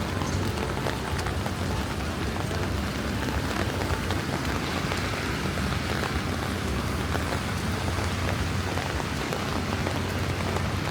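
Steady rain falling on a city street, with a constant low rumble underneath.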